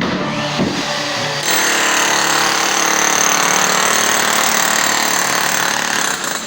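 A loud power tool cuts in about a second and a half in and runs steadily, with a high whine over a hiss, until just before the end.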